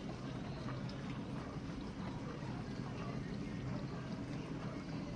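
GE dishwasher running its main wash: water spraying and sloshing inside the tub over a steady low hum.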